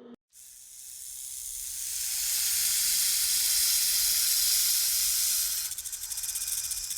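A snake hissing: one long, loud hiss that swells over the first two seconds and holds steady, then turns into a rapid fluttering buzz near the end.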